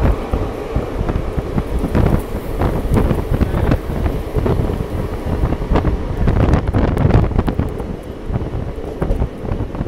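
Wind buffeting the microphone at the window of a moving passenger train, over the low rumble of the coach rolling on the rails, with scattered clacks.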